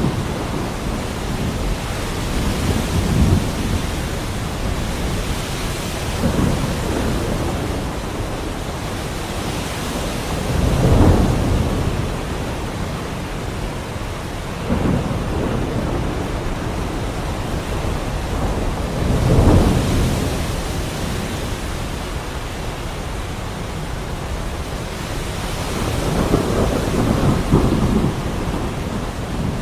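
Heavy rain falling steadily, with rolls of thunder rumbling low every few seconds; the strongest come about a third of the way in and again about two-thirds through.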